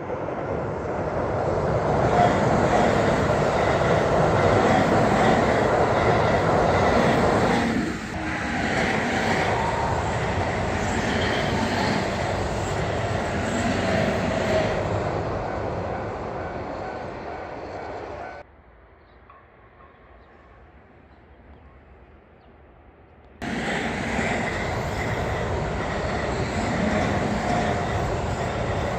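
Keihan electric train running past on the rails, loud and steady. About two-thirds of the way through, the sound cuts abruptly to a much quieter stretch for about five seconds, then returns just as suddenly.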